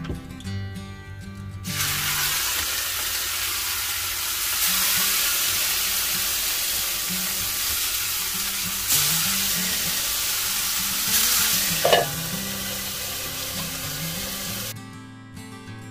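Salmon frying in oil in a pan: a loud, steady sizzle that starts abruptly about two seconds in and cuts off just before the end. A short rising squeak comes near the end.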